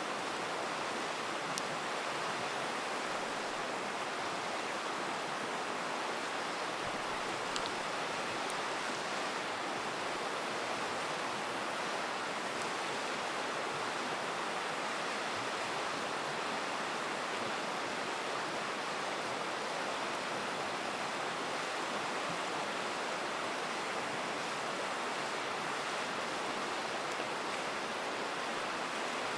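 A river rushing steadily, with a few faint pops and crackles from a campfire.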